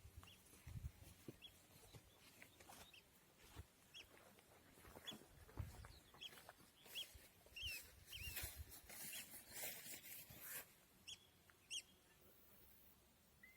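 Faint, short bird chirps repeating irregularly, about once or twice a second, over near silence.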